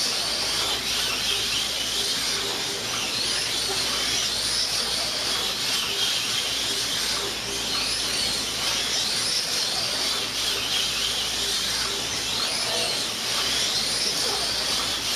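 Four 1/24 scale slot cars racing together, their small electric motors whining at high pitch, the whine rising and falling over and over as the cars speed up and slow through the corners.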